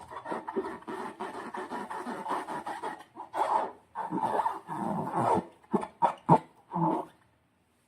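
Slime being squished and worked by hand: stretches of wet, crackling squelches that stop and start, with a few short, sharp pops a little over halfway through.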